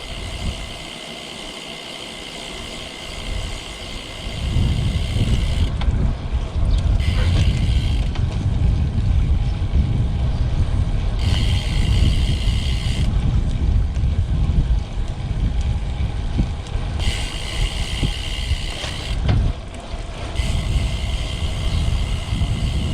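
Wind rushing over the microphone of a road bike ride, a low rumble that grows louder about four seconds in and stays, with a higher hissing whir that comes and goes in stretches of a few seconds.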